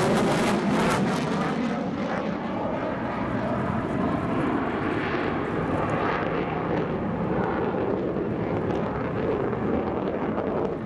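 F-15 fighter jet's twin turbofan engines, a loud, steady jet rumble. The hiss fades about a second and a half in as the aircraft moves away, leaving a continuing roar.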